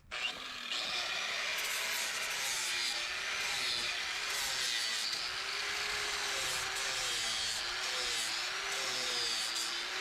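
Angle grinder with a flap disc grinding down the sharp edges of steel roller mounting brackets. It starts up at the beginning and runs steadily, its motor pitch wavering as the disc is worked against the metal.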